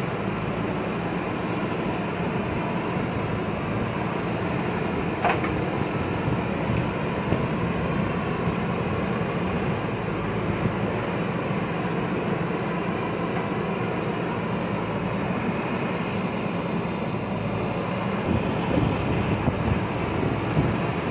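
JCB backhoe loader's diesel engine running steadily under working load, with a single metallic clank about five seconds in and a few louder knocks near the end.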